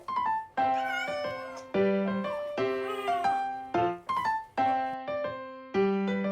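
Chinchilla Silver cat meowing several times in protest at being bathed, over background piano music.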